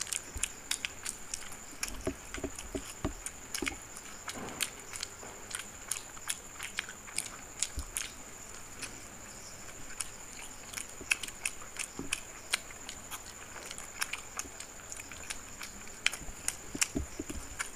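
Two people eating fried chicken momos quickly: close-up biting and chewing, heard as a steady, irregular stream of small mouth clicks and smacks with an occasional soft thump. A faint steady high whine runs underneath.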